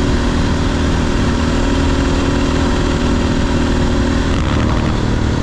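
500cc single-cylinder supermoto engine running at a steady pace while riding, its note holding even and then changing about four seconds in.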